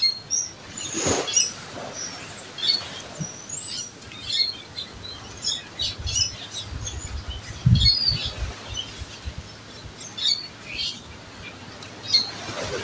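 Wild birds chirping, many short high calls scattered throughout, with a few low thumps near the middle, the loudest about eight seconds in.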